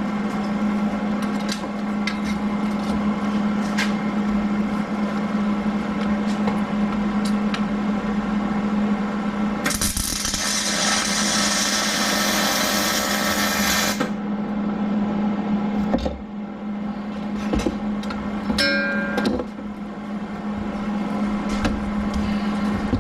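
A power tool's motor running at a steady pitch, with a loud harsh hiss for about four seconds near the middle and a few light clicks of metal.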